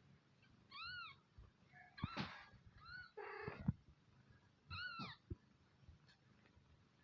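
Kittens mewing: three short, high, thin mews that rise and fall, about two seconds apart, with faint rustling between them.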